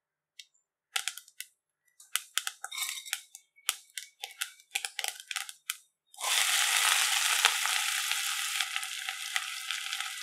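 Mustard seeds popping and spluttering in hot oil, a quick run of sharp pops. About six seconds in, chopped onion goes into the oil and a loud steady sizzle takes over.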